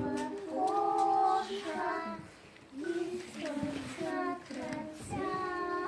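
A child singing a simple melody in held notes, with a short break about halfway through.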